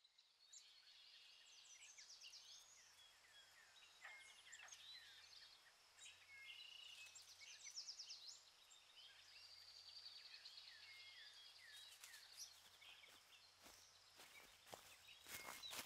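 Faint chorus of small birds singing, with many overlapping chirps and quick trills. A few soft clicks and rustles come in near the end.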